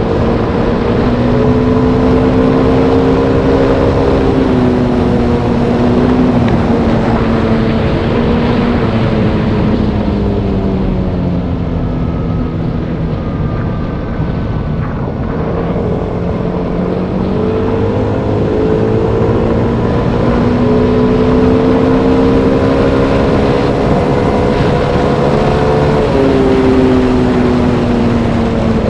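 Motorbike engine running on a ride, its pitch sinking slowly, climbing again, and dropping suddenly near the end, with a steady rush of noise underneath.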